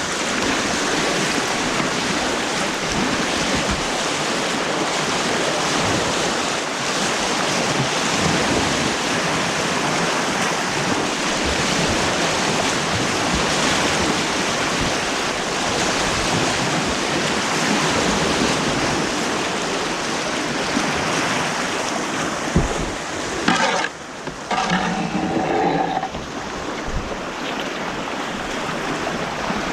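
Artificial white-water rapids rushing and churning steadily around a kayak, recorded close on an action camera. About three-quarters through, a sharp knock is followed by a brief drop in the rush and a short pitched sound.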